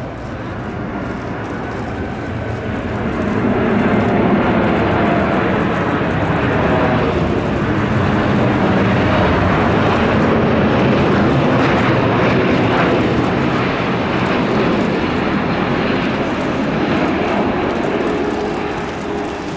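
Airliner passing close by: loud, steady engine noise that swells about three seconds in, holds, and eases a little near the end.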